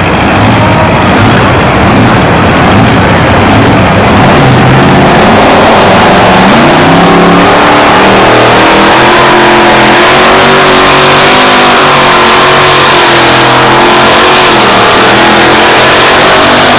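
Two-wheel-drive Chevy S10 pulling truck's engine running hard at full throttle as it pulls the weight-transfer sled. Its pitch climbs about six seconds in, stays high with a wavering note, and dips briefly near the end.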